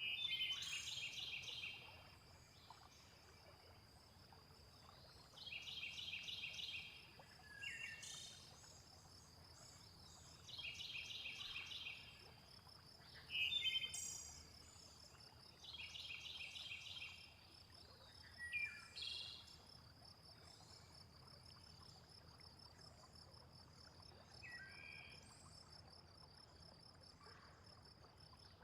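Bird song: one bird repeats the same short phrase of rapid notes four times, about five seconds apart, with other short chirps in between, over a steady high insect drone.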